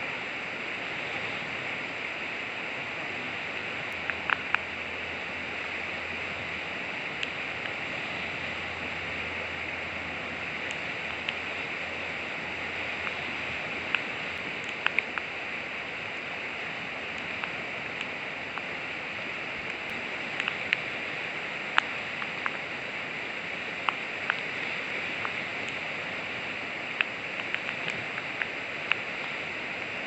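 Steady rush of river water flowing past, with scattered sharp ticks throughout.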